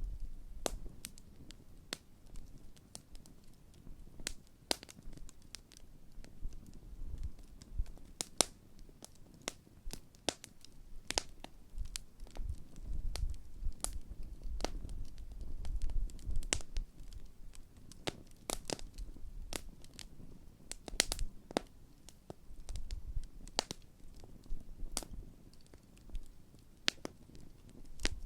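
Large open wood campfire crackling, with many sharp, irregular pops and snaps over a low rumble of flame that swells and eases, strongest around the middle. The fire is in its early burn, not long after lighting.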